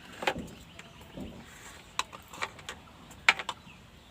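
Scattered light clicks and taps from an electrolytic capacitor being handled and its leads pushed into a TV circuit board, the sharpest click about three seconds in.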